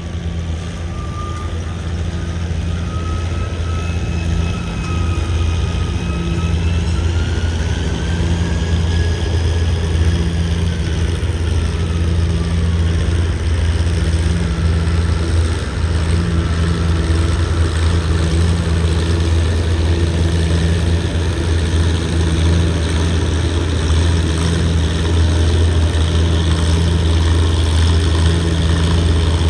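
Antique farm tractor engine running steadily with an even low throb, growing gradually louder.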